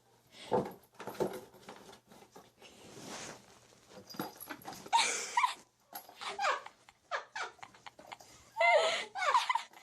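A household pet's short cries, several in a row, the loudest near the end, among scattered knocks and rustling.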